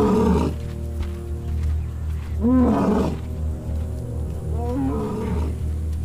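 Male lion roaring: three loud roars about two and a half seconds apart, the first right at the start, one about two and a half seconds in and one about five seconds in, over a steady low music drone.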